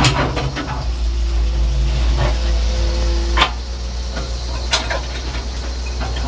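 Lorry engine running with a steady low rumble, with a few sharp knocks and rattles, the loudest about three and a half seconds in and another near five seconds.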